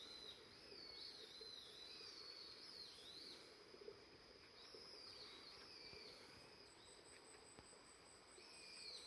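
Faint birdsong, warbling phrases that rise and fall and repeat, over a steady high-pitched insect drone.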